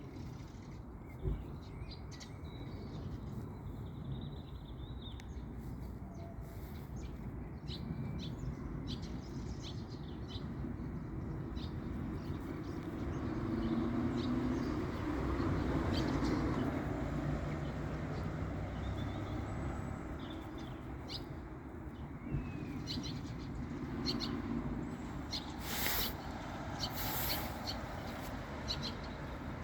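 Common starling singing: a varied run of short clicks, chirps and whistles, with a few louder sharp notes near the end, over a steady low rumble that swells in the middle.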